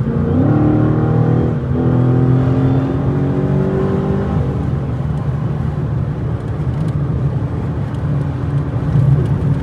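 Straight-piped Dodge Challenger Scat Pack's 6.4-litre Hemi V8 heard from inside the cabin with the windows up, pulling under acceleration. Its pitch rises, drops at a gear change about a second and a half in, climbs again, then settles to a steady cruise from about halfway.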